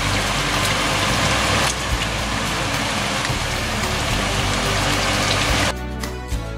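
Chicken pieces frying in hot oil in a pan, a steady sizzle. About five and a half seconds in it gives way to background music.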